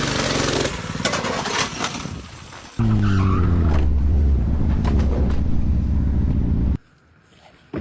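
Motor vehicle engine running loudly. About three seconds in, a louder engine note starts suddenly with its pitch dropping, settles into a steady low drone and then cuts off abruptly near the end.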